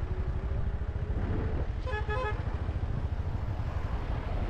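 Steady low rumble of riding along a road, with a vehicle horn giving a brief toot about two seconds in.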